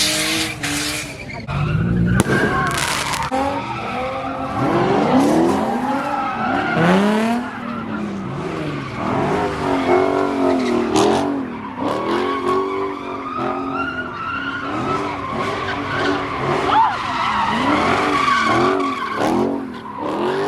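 Car tyres screeching and skidding with the engine running hard, in squeals that rise and fall in pitch about once a second.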